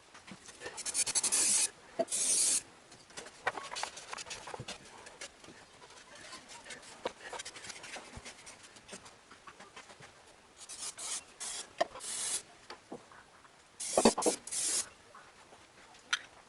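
Aerosol spray can hissing in short bursts, spraying down oil on an engine block's mating surface, with small clicks and knocks of hand work between the sprays.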